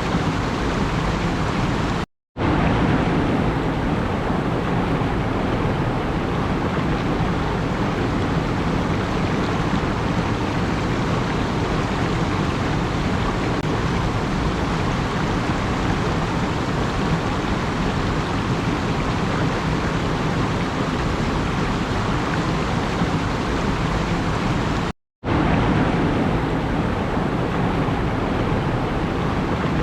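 A steady, even rushing noise with no rhythm or pitch, like running water or surf. It cuts out to silence for a moment twice: about two seconds in and near the end.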